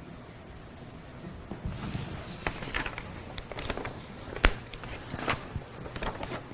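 Marker pen writing on a whiteboard: a run of short scratchy strokes starting under two seconds in, with one sharp click about halfway.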